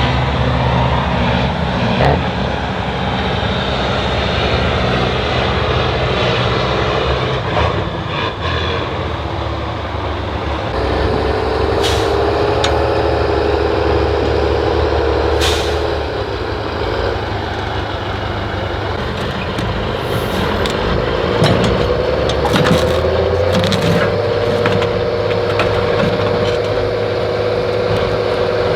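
Heavy off-road trial truck's engine running steadily under load, its pitch rising about three-quarters of the way through and then holding. A few sharp knocks or hisses are heard midway.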